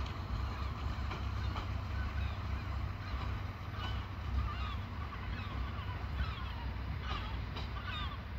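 Low, steady rumble of a distant train pulling away, with a flock of birds calling in short, bending notes that come thick and fast from about three and a half seconds in.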